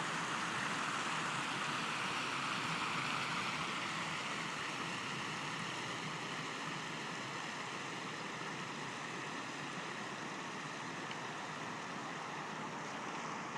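Creek water rushing over a small fall or cascade, a steady full rush of water.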